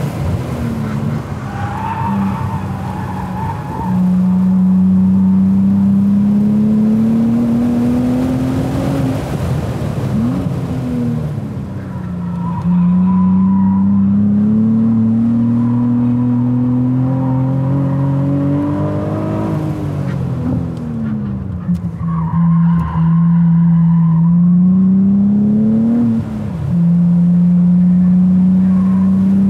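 Cadillac ATS-V's twin-turbo V6, heard from inside the car, rises in pitch four times under hard acceleration. Between the pulls are quieter off-throttle stretches into corners, and a quick upshift comes near the end. The tyres squeal briefly in the slower corners.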